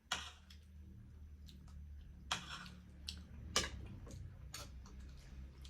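Close-up eating sounds of spicy instant noodles and momos: a handful of short, sharp mouth smacks and slurps spread across a few seconds, over a low steady hum.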